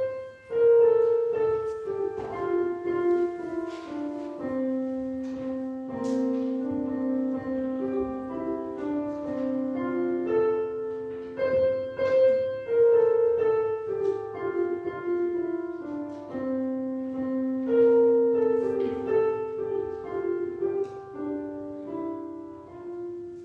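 Solo piano playing a slow, gentle melody over sustained chords, fading out at the end.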